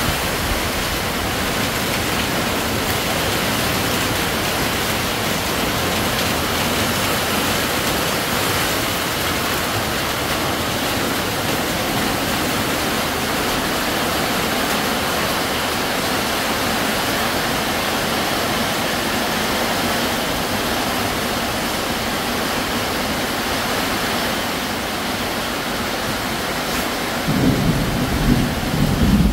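Heavy downpour: a steady hiss of rain on grass, foliage and a corrugated metal roof. Near the end a choppy low rumbling burst rises over it.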